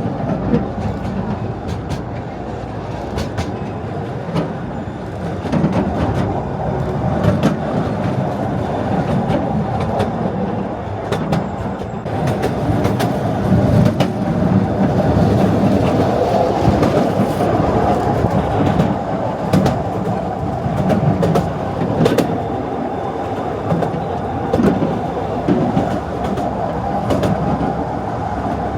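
Artouste narrow-gauge tourist train running along its track: a steady rumble of wheels on rail, with frequent sharp clicks and rattles from the wagons.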